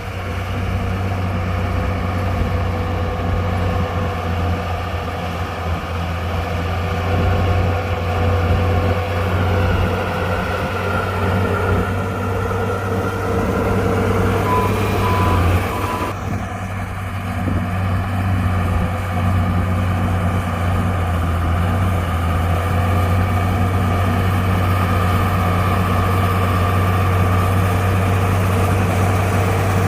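Heavy diesel earthmoving machinery running steadily, with a truck's reversing beeper sounding a few short beeps about halfway through.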